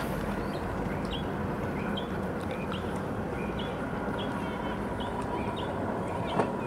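Small birds chirping: a quick, repeated series of short, high calls over a steady low rumble, with one sharp click near the end.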